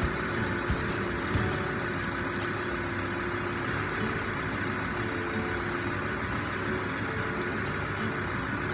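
Mazda BT-50 ute's engine idling steadily as the vehicle creeps slowly forward.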